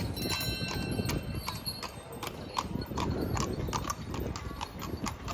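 Horse hooves clip-clopping at a steady walk, about three steps a second.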